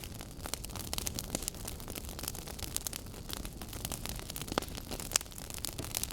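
Wood logs burning, crackling with frequent sharp pops over a steady hiss, one louder pop about five seconds in.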